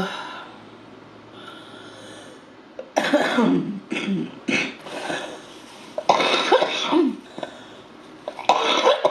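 A woman coughing in several short bouts, about four over the stretch, with her voice catching in them.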